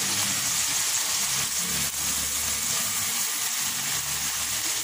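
Chicken strips sizzling steadily in oil and a little water in a wok, with the spatula stirring them near the end.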